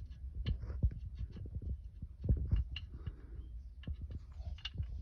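Irregular metal clicks and knocks of wrenches and bolts being handled while a motor mount nut is taken off, over a low steady hum.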